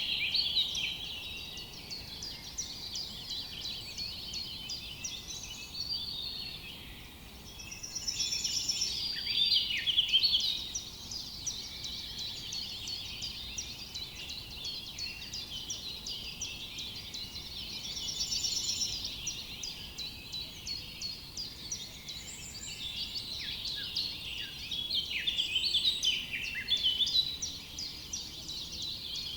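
Several birds singing at once in a forest: a dense chorus of chirps and whistles that swells louder about a third of the way in and again near the end, with a rapid trill heard twice.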